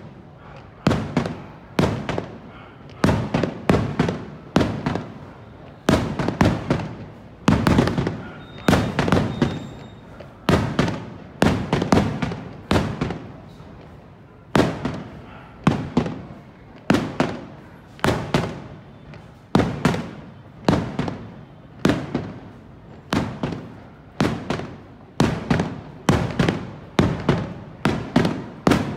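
Aerial firework shells bursting in a continuous barrage, one or two sharp bangs a second, each trailing off in a short echo.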